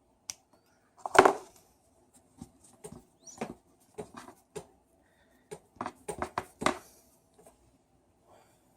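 Irregular clicks, scrapes and rustles of hands and small tools handling a power tool's rubber-insulated power cord during a repair, loudest about a second in and again in a quick cluster near the end.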